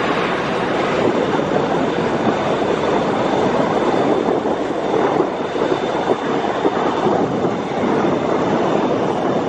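Steady jet noise of a Boeing 777-9's GE9X turbofan engines in flight, with a faint high whine held throughout.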